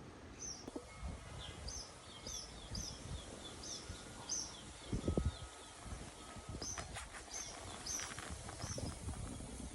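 Small birds chirping over and over, about two short chirps a second, over a low background hum, with a brief low rumble about five seconds in.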